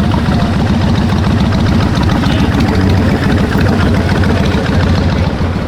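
A vehicle engine idling loudly close by, with a fast, even low pulsing that eases off slightly near the end.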